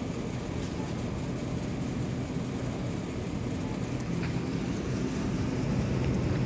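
Steady low rumble of store background noise, with a few faint clicks.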